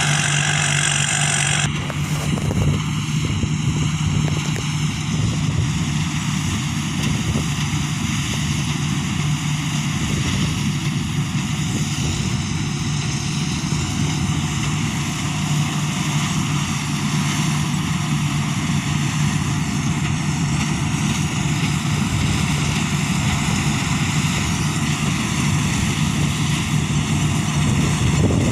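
Combine harvester running steadily, with a low engine drone and mechanical noise. A bright hissing layer cuts off abruptly about two seconds in.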